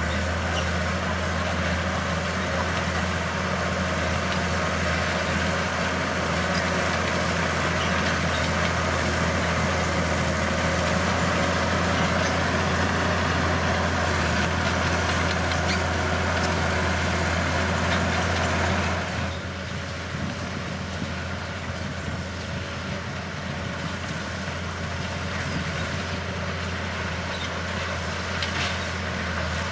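Bulldozer's diesel engine running steadily with a deep drone; the sound drops noticeably about two-thirds of the way through and carries on more quietly.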